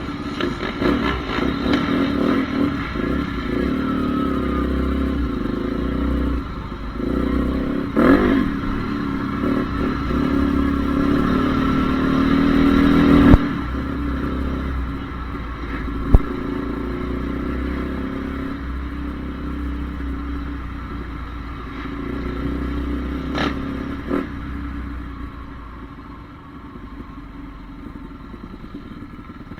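Honda CRF450R's single-cylinder four-stroke motocross engine revving and running on the throttle. It builds to its loudest about thirteen seconds in, then drops off sharply. A single sharp knock follows a few seconds later, and the engine grows quieter near the end.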